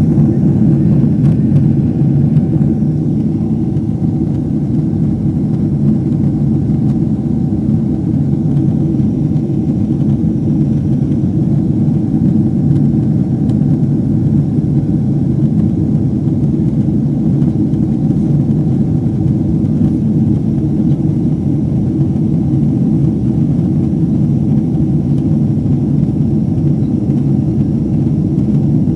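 An airliner's jet engines and rushing air, heard as a steady low rumble from inside the cabin, with a faint steady whine above it.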